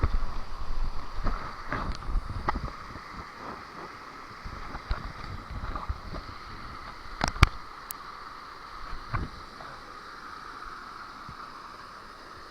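Water splashing and sloshing in irregular bursts, busiest in the first two seconds, with a sharp knock about seven seconds in, over a steady high-pitched hum.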